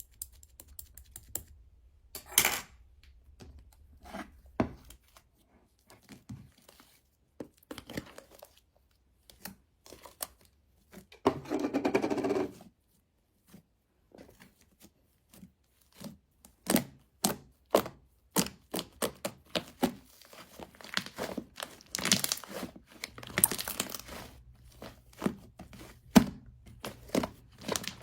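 Paper or plastic being handled: irregular short crinkles, rustles and taps, with one longer tearing sound of about a second and a half just past the middle.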